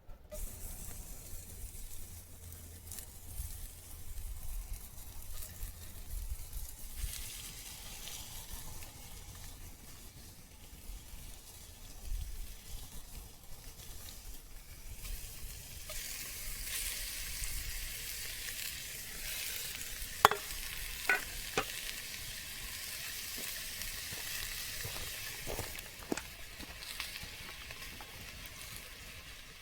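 Food sizzling in a hot cast iron camp oven as ingredients go in and are stirred, the sizzle growing louder about halfway through, with a few sharp clicks of a utensil against the pot past the middle.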